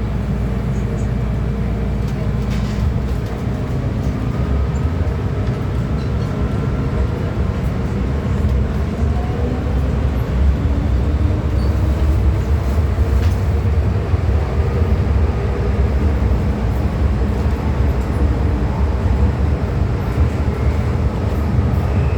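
MTR M-Train electric metro train running through a tunnel: a steady low rumble of wheels on rail, with faint rising and falling whines from the traction motors. The rumble grows slightly louder a few seconds in.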